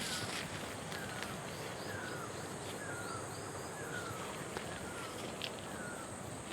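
A bird repeating a short, falling whistle about once a second, over a steady high insect drone and a constant background hiss.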